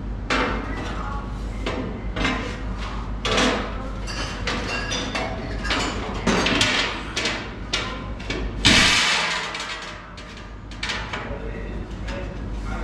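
Irregular knocks, clanks and clatters of sheet metal and tools being handled and struck, with a louder noisy rush about nine seconds in, over a steady low hum.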